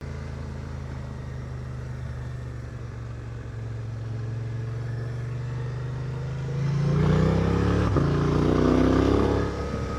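Motorcycle engine running steadily, then accelerating about seven seconds in, its pitch climbing for a couple of seconds before it eases off near the end.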